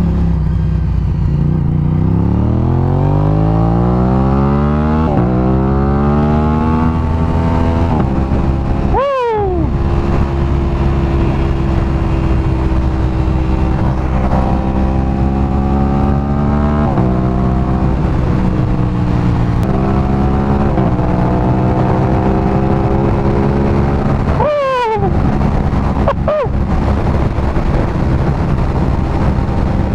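Aprilia RS 660's parallel-twin engine, breathing through an SC-Project exhaust, pulling under way. Its revs climb steadily for several seconds, then jump and fall sharply about nine seconds in as the throttle is closed. It cruises at a steady pitch after that, with several more quick drops in revs near the middle and toward the end.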